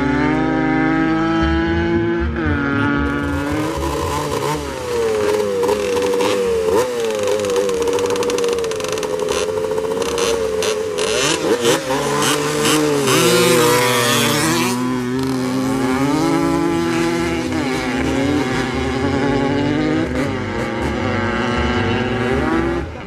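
Dirt bike engines revving, their pitch rising and falling over and over, with a brief rushing noise and clatter about halfway through.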